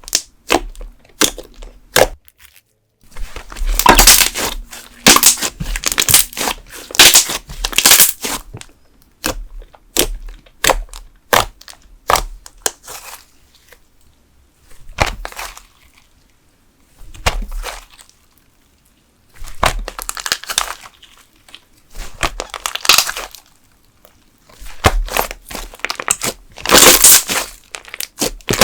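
Thick candle slime (wood glue and school glue thickened with soy wax) being squeezed and stretched by hand, giving off irregular bursts of sharp crackling pops as air bubbles in the thick film burst. There is a short quiet stretch about halfway through.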